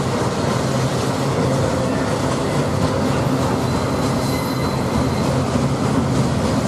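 Freight train rolling past close by: a steady, loud rumble of cars on the rails, with faint wheel squeal partway through.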